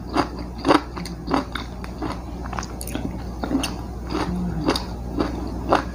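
A person chewing and biting food close to a clip-on microphone, with irregular sharp clicks of teeth and mouth, a few louder ones early and one near the end. A steady low hum runs underneath.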